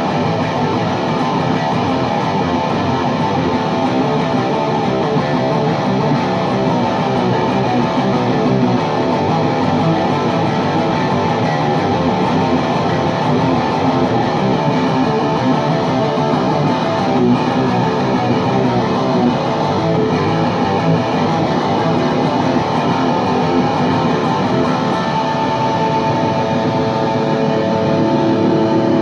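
Electric guitar played through a high-gain VHT Deliverance D60 tube amp with KT88 power tubes, a Les Paul Custom heard through a miked 4x12 cabinet with Vintage 30 speakers, riffing with a dry, chugging distortion. Near the end it settles into held, ringing notes.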